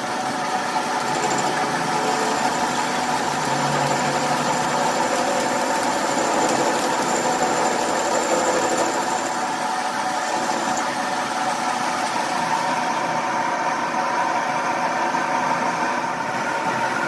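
A machine running steadily with an even hum of several tones over a noisy wash.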